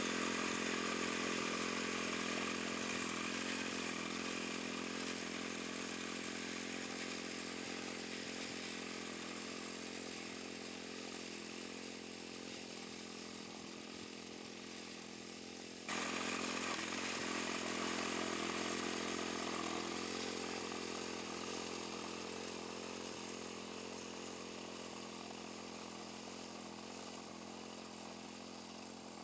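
Wing mower's engine running steadily while it cuts grass. It fades gradually, jumps back to full loudness just past halfway, and then fades again.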